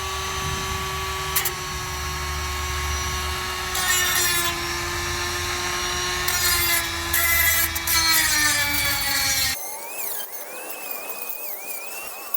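Electric power tool cutting through rusted exhaust flange bolts, its motor whining steadily and slowly dropping in pitch under load. It stops abruptly about ten seconds in, and a fainter, wavering high-pitched tone follows.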